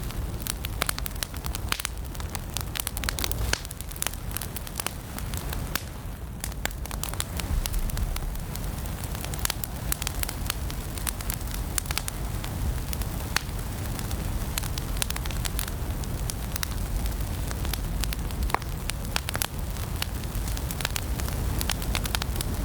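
Wood fire burning in a fireplace: a steady low rumble of the flames with frequent sharp crackles and pops of burning logs.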